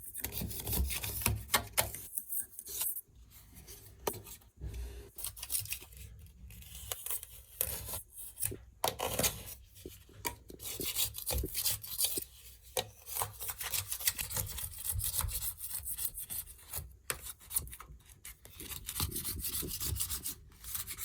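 Old silicone sealant being scraped and rubbed off around a shower tray, in a long run of short, irregular scratchy strokes.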